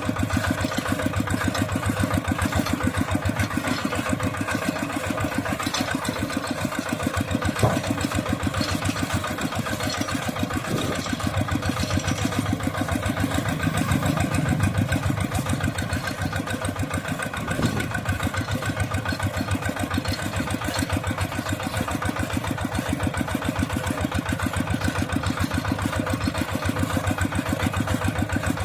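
Mini tractor engine running steadily with a fast, even chugging while hauling a load of straw bales, with a sharp knock about a quarter of the way in and another a little past halfway.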